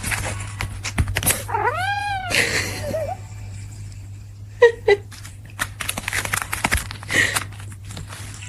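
A cat gives one long meow about two seconds in, rising and then falling in pitch, and two short sharp calls about halfway through. Rustling and clicking noises and a steady low hum run under them.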